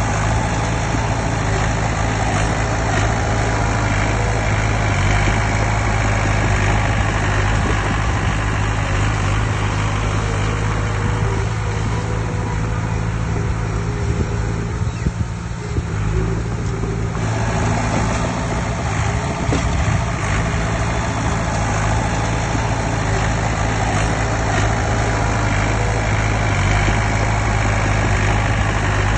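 Heavy diesel earthmoving machinery running steadily with a low engine hum, briefly quieter about halfway through.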